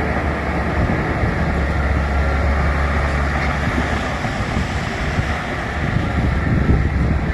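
Bulldozer's diesel engine running steadily, a continuous low hum with a broad mechanical noise over it.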